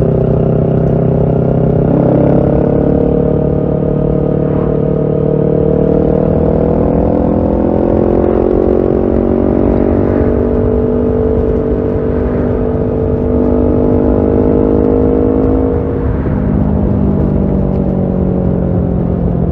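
Kawasaki Ninja 650's parallel-twin engine running through a Shark SRC-4 full exhaust while riding, its pitch climbing slowly under throttle. About sixteen seconds in the pitch drops sharply, then holds steady, with a constant low rush of wind underneath.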